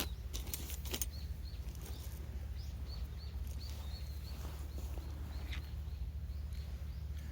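Small birds calling with a string of short, high chirps over a steady low background rumble, with a few sharp clicks in the first second.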